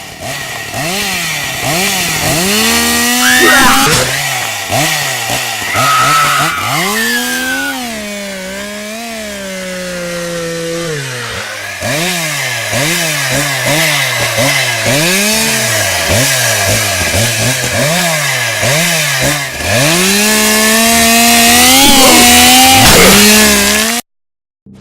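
Chainsaw engine revved again and again, its pitch swooping up and falling back roughly once a second, with longer held high revs about three seconds in and again near the end. It cuts off suddenly just before the end.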